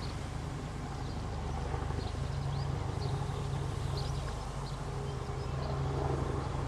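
Outdoor ambience: a steady low rumble with small birds chirping briefly now and then.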